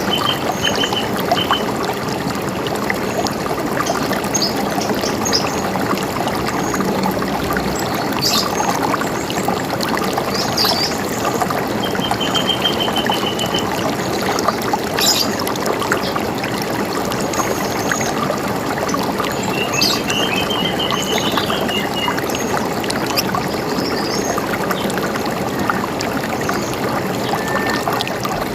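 River water running steadily, with small birds calling now and then over it: a few short, fast trills and brief chirps.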